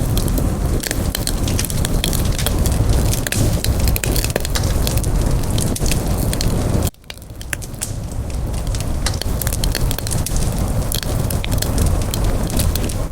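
Campfire burning, with frequent sharp crackles and pops over a steady low rumble of the flames. About seven seconds in, the sound drops out abruptly and fades back up over a second or so.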